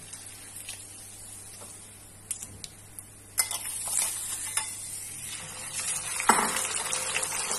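Kubba deep-frying in hot oil in a frying pan, the sizzle jumping up sharply about three and a half seconds in and again, louder, a little after six seconds as more kubba go into the oil. Before that, a few clicks of a metal slotted spoon against the pan.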